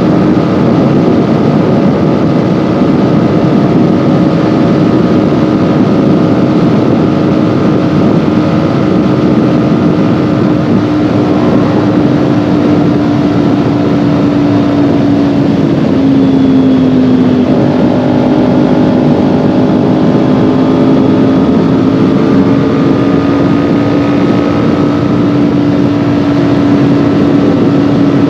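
Kawasaki Ninja 400's parallel-twin engine running under way at fairly steady revs, over a steady rush of wind and road noise. The engine note sags slowly, dips just past halfway, then climbs gradually again.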